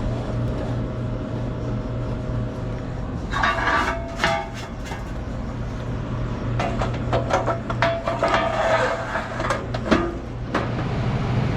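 Bottle cooler's condensing unit running with a steady hum, its new condenser fan motor quiet, while the unit is slid back into place: bursts of metal scraping, knocking and clattering about three seconds in and again from about seven to ten seconds.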